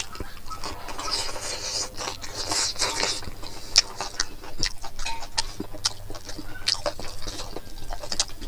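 Close-up eating sounds: chewing with irregular wet mouth clicks and smacks while rice and greens are eaten by hand.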